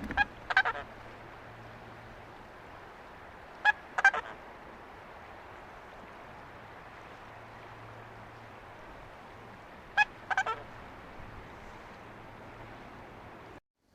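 Swan honking: short clusters of two or three calls near the start, around four seconds in and around ten seconds in, over a steady faint hiss.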